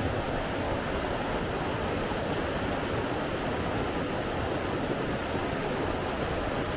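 Steady rushing water, an even, unbroken wash of noise with no separate events or changes.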